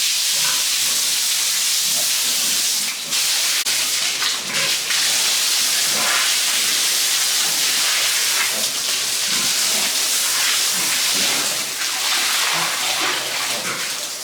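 A steady hissing noise, with a brief dip about three seconds in.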